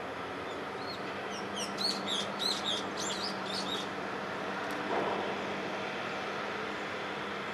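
A small bird chirping, a quick run of short high chirps lasting about three seconds and starting about half a second in, over a steady low hum.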